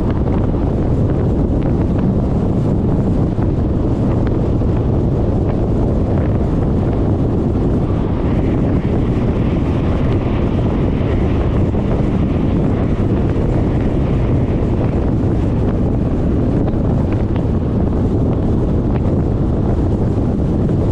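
Steady wind rush buffeting the action-camera microphone on a moving Suzuki Burgman 400 scooter, with the scooter's running and road noise underneath.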